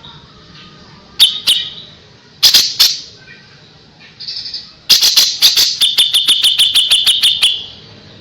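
A kapas tembak bird singing: two pairs of sharp, clipped notes, a short burst, then a fast run of sharp notes at about seven a second lasting over two seconds. This is the rapid 'tembakan' (shooting) phrase prized in Indonesian songbird tutoring recordings.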